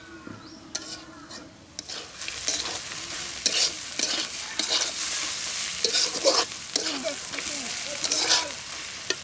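Sliced onions and green chilies frying in oil in a large karahi, sizzling as a metal spatula stirs and scrapes them around the pan. The sizzle and scraping grow much louder about two seconds in and carry on as repeated strokes.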